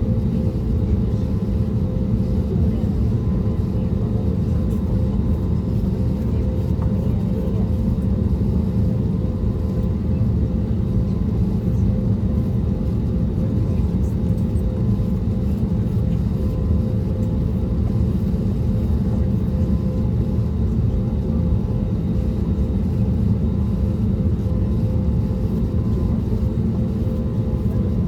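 Steady cabin drone of an Airbus A320neo with CFM LEAP-1A26 engines, heard from inside the passenger cabin: an even deep rumble with a constant hum laid over it.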